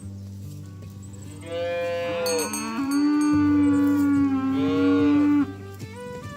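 A cow mooing: one long call of about four seconds, starting about a second and a half in, over background music with plucked notes.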